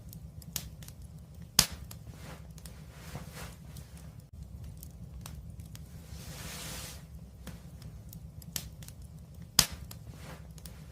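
Wood fire crackling steadily, with many small ticks over a low rumble and two loud, sharp pops, one about a second and a half in and one near the end. Around the middle a hiss swells and fades.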